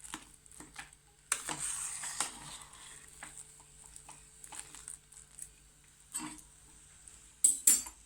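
A spoon or spatula stirring thick mashed potatoes in a pot, with soft scraping and wet squishing and light scattered taps on the pot. A rougher stretch of scraping comes about a second in. A couple of sharper clacks against the pot come near the end.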